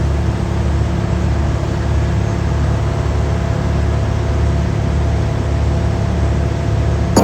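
Heavy diesel engine running at a steady speed, an even low drone that does not change.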